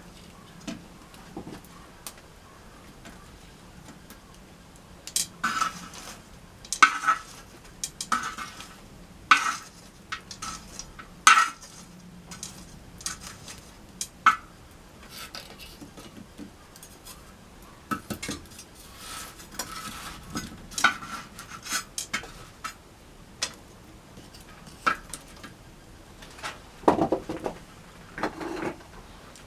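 Hard metal objects clinking and clattering as they are handled, in irregular sharp knocks with a short ringing. Two duller, heavier knocks come near the end.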